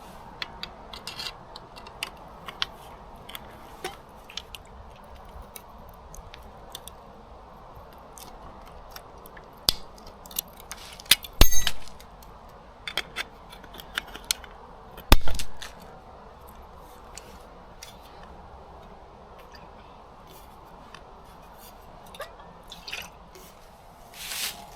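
Objects being handled: scattered light clicks and clinks over a steady low hiss, with two heavy knocks about eleven and fifteen seconds in.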